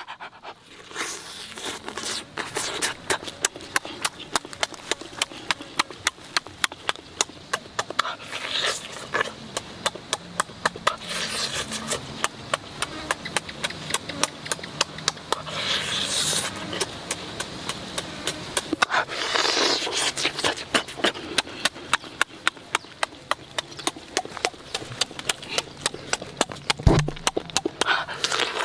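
Loud open-mouthed chewing and lip-smacking on roast chicken, a rapid, regular run of wet smacks at about four a second. A few breathy sounds from the eater are mixed in.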